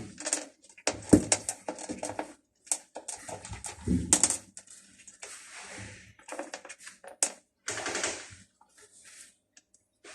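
Hungry cats eating: an irregular run of crunches, clicks and smacking sounds.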